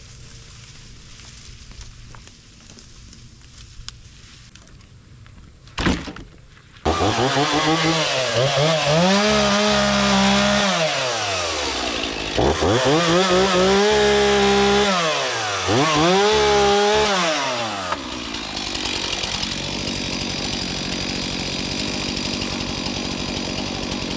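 Two-stroke chainsaw starting up about seven seconds in after a brief clatter, revved up and down three times, then running steadier and rougher from about eighteen seconds, as when the chain is cutting into wood.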